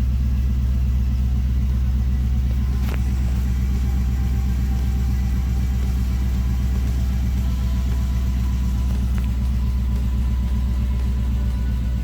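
Cadillac CTS-V's LS6 V8, fitted with an aftermarket supercharger, idling steadily with a deep hum, running on its newly replaced alternator. A single sharp click sounds about three seconds in.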